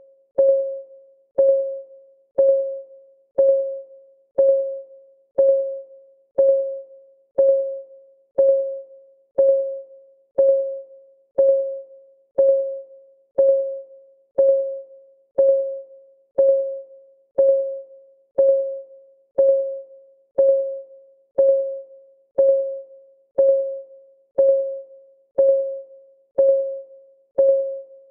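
Countdown timer's clock ticking sound: one short, pitched tick every second, each a click with a brief ringing tone that fades quickly, at a perfectly even pace.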